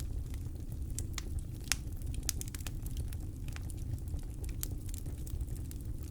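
Campfire crackling: irregular sharp pops and snaps of burning wood over a steady low rumble, with one louder pop a little under two seconds in.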